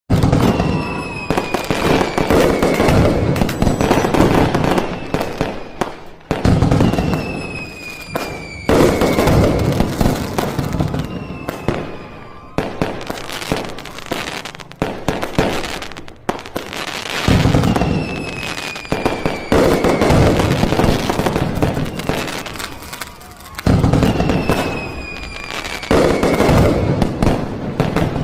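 Fireworks and firecrackers going off in dense crackling volleys that surge every few seconds, with whistling tones that fall in pitch.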